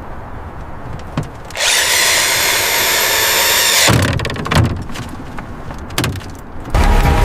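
Cleaning work on a rusty truck body: a loud rasping hiss lasting about two seconds, then a few knocks and clatter. Music comes in near the end.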